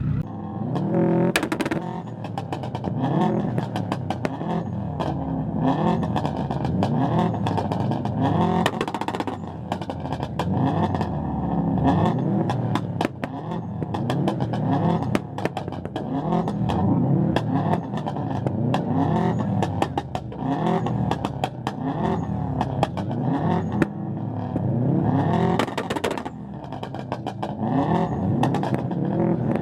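Car engine revving hard over and over, its pitch climbing and dropping every second or two, with many sharp cracks and pops throughout.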